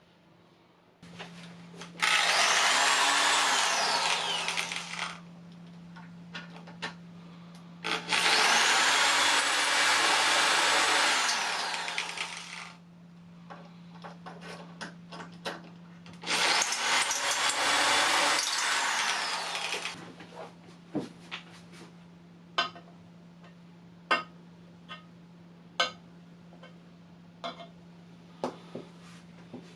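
Electric circular saw on a linear-bushing slide stand, run three times: each time the motor whines up to speed, saws through wood for a few seconds, then winds down. A steady low hum runs underneath, and scattered light clicks follow the third run.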